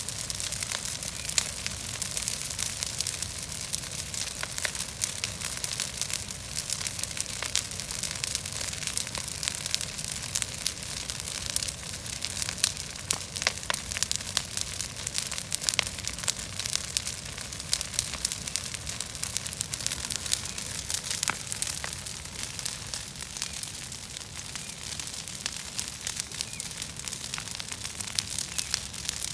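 Bonfire of brush and weeds burning, a steady hissing roar with many sharp crackles and pops throughout.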